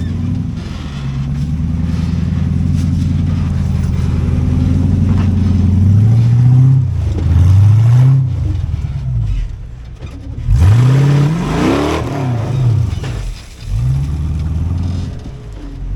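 Off-road rig's engine running steadily, then revved in a string of short rises and falls in pitch, with the biggest rev about two-thirds of the way through.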